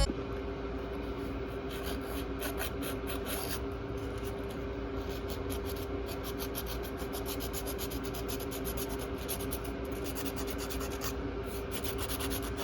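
A fingernail being filed in quick rubbing strokes, over a faint steady hum.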